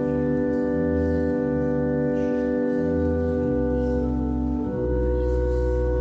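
Church organ playing slow sustained chords over a moving bass line, the chord changing just before the end.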